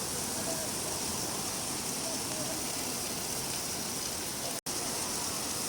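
Steady rain falling, an even hiss of rainfall. It cuts out for an instant about four and a half seconds in, then resumes unchanged.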